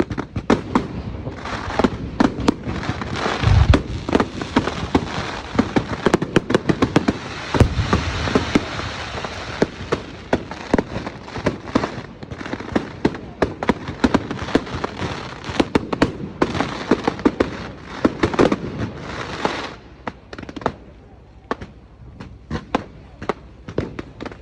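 Fireworks going off in a dense barrage of rapid crackling and bangs, with two deep booms about 3.5 and 8 seconds in; the barrage thins to scattered bangs after about 20 seconds.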